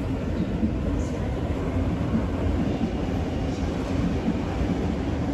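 Sydney Trains Waratah double-deck electric train approaching on curved track, a steady low rumble of its motors and wheels on the rails.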